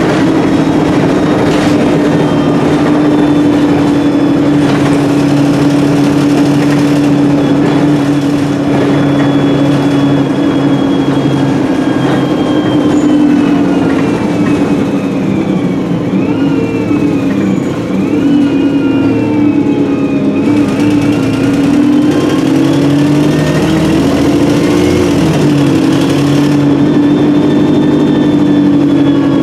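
Alexander Dennis Enviro300 bus on the ADL E30D chassis heard on board under way: the diesel engine and Voith four-speed automatic gearbox run steadily, with a gearbox whine that falls and then rises again around the middle. The exhaust is blown.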